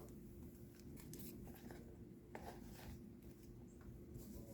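Faint rustling and scattered light clicks of trading cards being handled.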